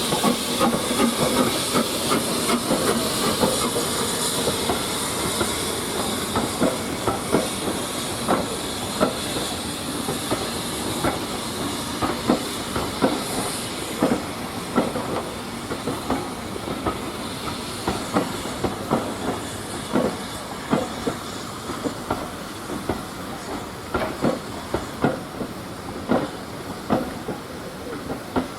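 A steam train passing: hissing steam and the clicking of carriage wheels over rail joints. The hiss fades after the first few seconds while the wheel clicks go on.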